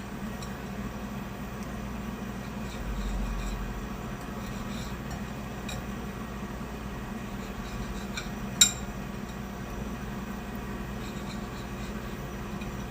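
Steady background hum of a room, with one sharp clink, like glass or a utensil knocking against dishware, about two-thirds of the way through.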